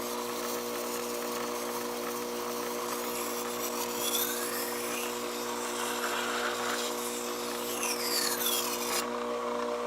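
SDG-150H vertical water-cooled knife-sharpening grinder running, its electric motor giving a steady hum under a constant hiss.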